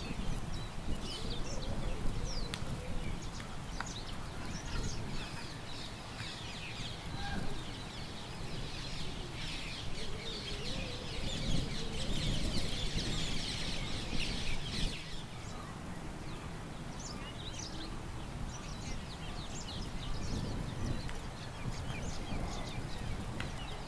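Small birds chirping and calling, with a denser burst of chattering song through the middle, over a steady low rumble of wind.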